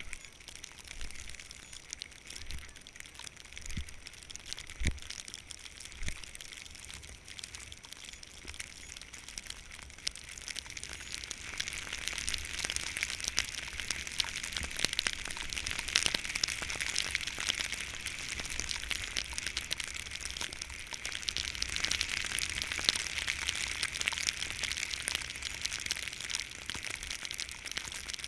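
Skis hissing and scraping over snow, getting louder from about ten seconds in, with scattered crackles and low rumbling wind on the microphone.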